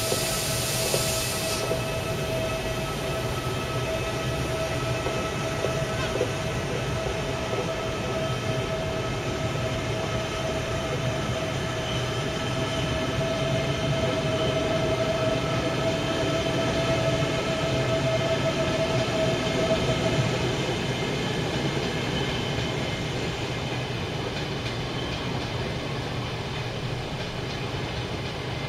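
CP Alfa Pendular electric train pulling away from the platform. Its electric drive gives a steady whine of several pitched tones over a low rolling rumble, and the whine fades out about twenty seconds in. There is a brief hiss in the first second or so.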